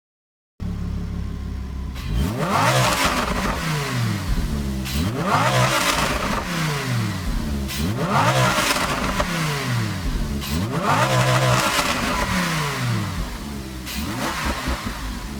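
Car engine revved repeatedly from idle through its exhaust: after a second or so of idling, the revs climb and fall back about five times, each blip peaking with a louder rush of exhaust noise.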